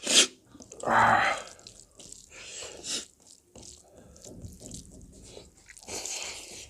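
Close-up wet eating sounds from a mukbang of spicy pork curry: mouth noises, chewing and slurping. A sharp loud one comes right at the start and a longer one about a second in, then smaller ones.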